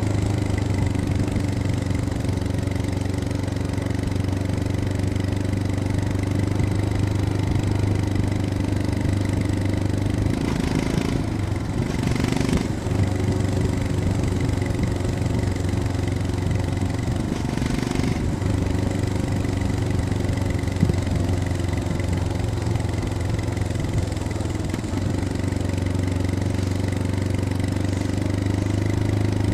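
Royal Enfield Scram 411's single-cylinder engine and exhaust running steadily under way. Its steady note breaks briefly a few times, about a third of the way in and again a little past the middle.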